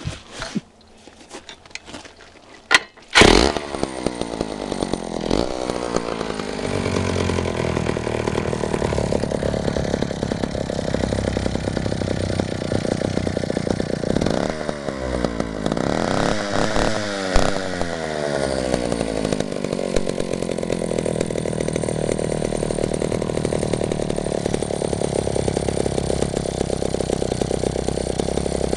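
McCulloch D-36 chainsaw's two-stroke engine starting after a few clicks and knocks, about three seconds in. It runs steadily, is revved up and down a few times around the middle, then settles back to steady running.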